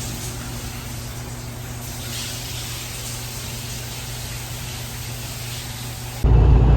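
Steady airy hiss over a low, even hum, like a truck cab's heater fan with the engine idling. About six seconds in it cuts abruptly to a much louder, deeper vehicle engine noise.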